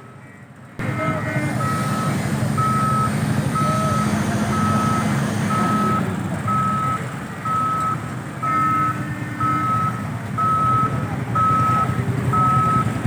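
Reversing alarm on heavy machinery at a piling site, beeping evenly about one and a half times a second over a running engine. It starts up about a second in.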